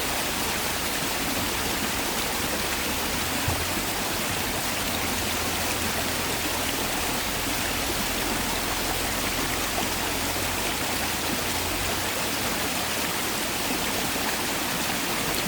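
Mountain valley stream rushing steadily over rocks, an even splashing flow, with one faint knock about three and a half seconds in.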